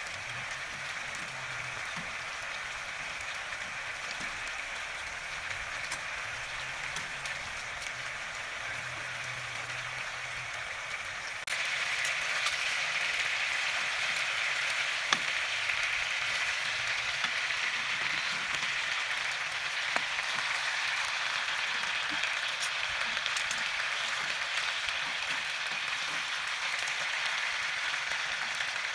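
Chicken drumsticks and red onion sizzling as they fry in a pan, with a steady hiss and scattered small pops and crackles. The sizzle gets abruptly louder about eleven seconds in.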